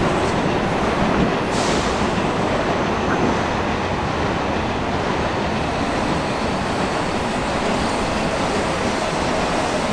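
Korail electric commuter train running in alongside the platform: a steady rumble of wheels and running gear, with a faint whine coming in near the end.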